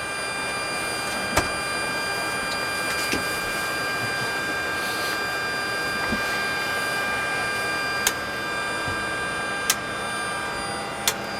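Il-86 auxiliary power unit running steadily at idle while warming up after a hot start: an even rush with several steady whining tones. A few sharp clicks come through it.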